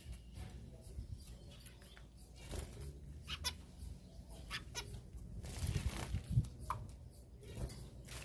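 Small exotic cage birds bathing: short scattered chirps over bouts of wing-fluttering splashes, the busiest about two thirds of the way through.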